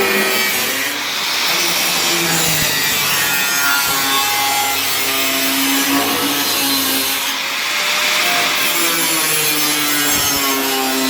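Power tool cutting through sheet-steel car floor panel, running continuously with its pitch wandering up and down as the load changes.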